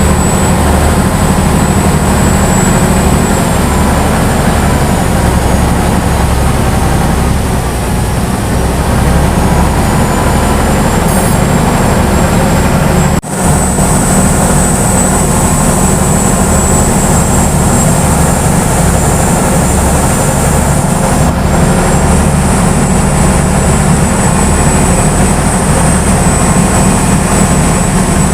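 Khlong Saen Saep canal commuter boat's diesel engine running loud and steady under way. It drops out for an instant about halfway through.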